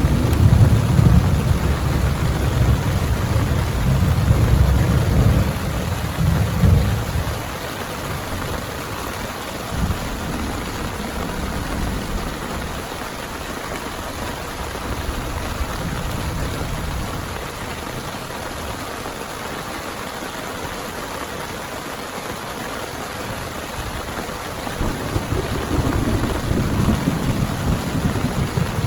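Heavy rain falling steadily during a thunderstorm. Thunder rumbles loudly at the start, dies away about seven seconds in, and rumbles again near the end.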